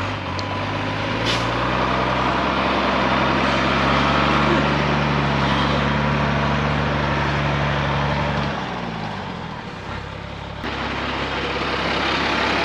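1983 Mercedes Unimog U1700L's diesel engine pulling steadily under load as the truck crawls through soft sand. About eight and a half seconds in, the engine note drops in pitch and falls away for a couple of seconds before a rougher, noisier sound returns.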